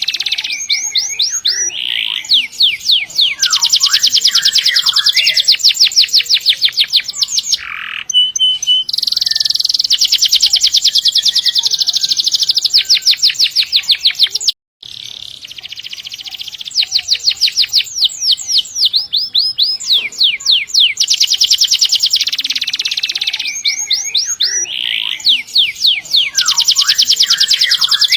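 Domestic canary singing long, fast rolling trills: runs of rapidly repeated high notes broken by short pauses. The sound cuts out for an instant about halfway through.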